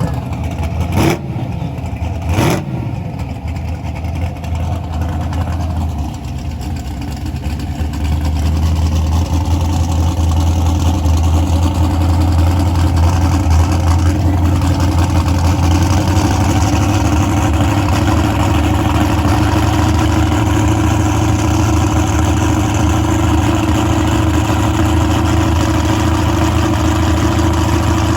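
Vehicle engine running steadily at a constant speed, louder and steadier from about eight seconds in. Two sharp cracks come in the first few seconds.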